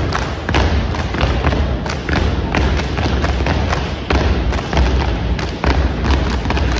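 Unarmed drill team stomping and slapping in unison: a fast, dense run of sharp slaps over heavy low thumps.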